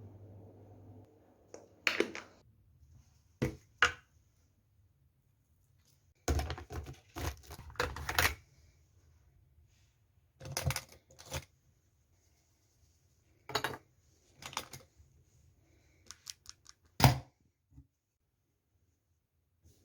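A series of sharp clicks and knocks at irregular intervals, some in quick clusters, the loudest single knock near the end: small objects being handled in a small room.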